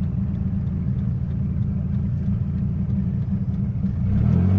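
1997 Dodge Viper GTS's 8.0-litre V10 running while driving, a steady low engine note that grows louder with clearer tone about four seconds in.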